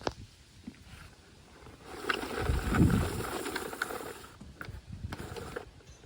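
Scraping and rustling with a few knocks for about three and a half seconds, starting about two seconds in and loudest near the three-second mark: a big, heavy bag of camping gear being moved.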